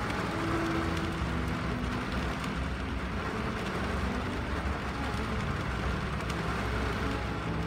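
Steady rain on a car's windshield and body, heard from inside the car: an even hiss over a low rumble. A few faint, low held notes sound under it.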